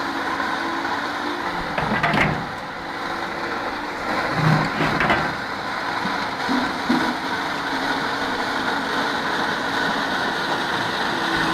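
Heavy-equipment diesel engine running steadily, with a couple of brief, sharp louder noises, about two seconds in and again about five seconds in.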